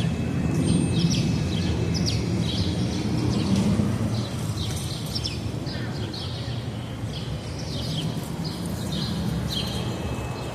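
Small birds chirping repeatedly in short, quick calls over a steady low rumble that is louder in the first few seconds and then eases off.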